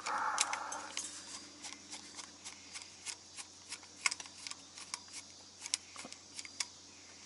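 Hand tools working screws out of a truck part: a short rushing noise in the first second, then a run of light, irregular metallic clicks and ticks.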